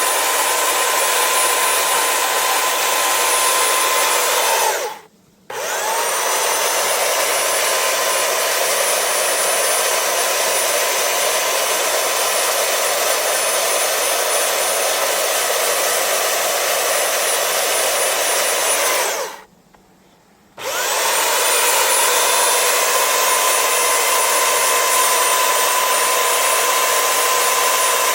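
Electric power tool motor running steadily with a steady whine. It switches off twice, briefly about five seconds in and for about a second near the twenty-second mark, and each time spins back up with a rising whine.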